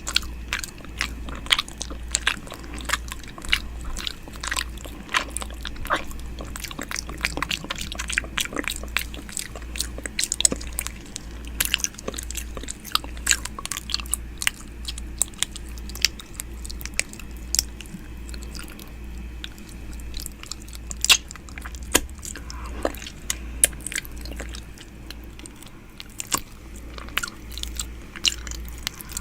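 ASMR 'ear eating' mouth sounds close to the microphone: a steady stream of irregular wet clicks and smacks of lips and tongue, like nibbling and chewing, over a faint steady low hum.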